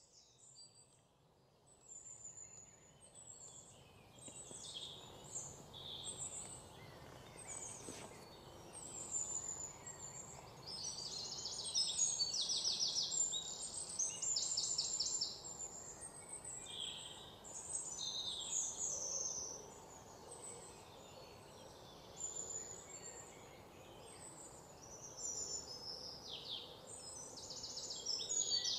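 Several birds calling and chirping over steady background noise, with repeated fast trills, loudest a little under halfway through and again near the end.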